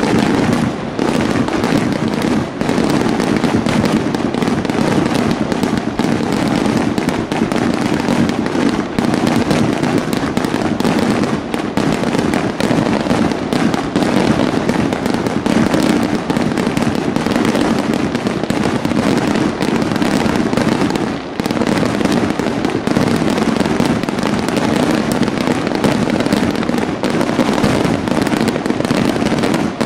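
Aerial firework shells bursting in a dense, unbroken barrage of bangs and crackling. There is a brief lull a little after twenty seconds in.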